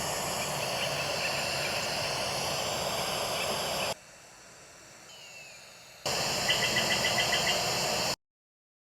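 Steady outdoor noise, like wind, with faint rapid high bird chirps about a second in and again near the end. It drops away for about two seconds in the middle, then cuts off suddenly.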